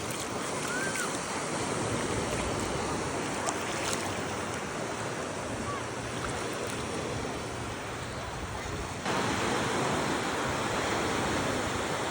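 Ocean surf washing onto a beach, a steady rush of waves with some wind. The sound steps up suddenly louder about nine seconds in.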